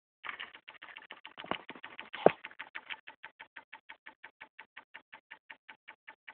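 Turbospoke bicycle exhaust, a plastic card flapping against the turning wheel's spokes, making a rapid clicking. The clicks come dense and uneven at first, with a louder knock about two seconds in, then settle into an even run of about five clicks a second.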